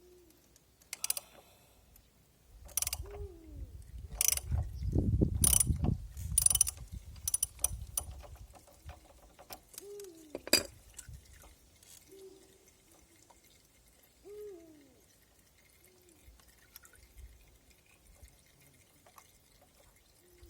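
A ratchet wrench clicking, with sharp metallic clanks of tools being handled at intervals, busiest in the first half.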